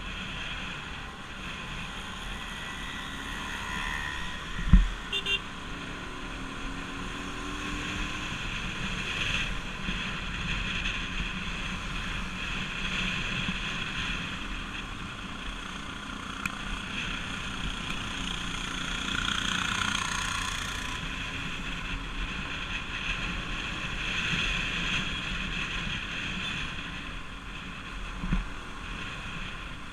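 Bajaj Pulsar RS200 motorcycle under way, its single-cylinder engine and tyre and wind rush blending into a steady roar, with a sharp thump about five seconds in and a smaller one near the end.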